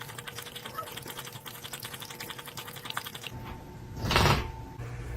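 Rapid, evenly spaced clicking that stops after about three seconds, then a short loud rush of noise a little after four seconds in.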